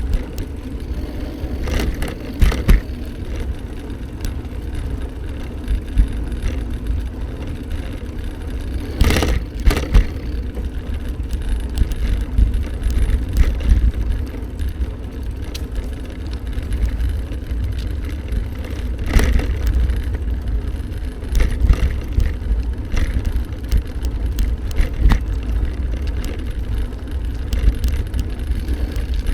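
Riding noise from a moving bike: wind buffeting the microphone over a steady low rumble, with a few sharp knocks about 2, 9 and 19 seconds in.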